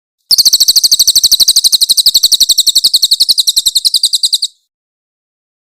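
Crested jay (cililin) giving a loud, shrill rattling call: a fast, even run of about a dozen notes a second lasting about four seconds, then stopping abruptly.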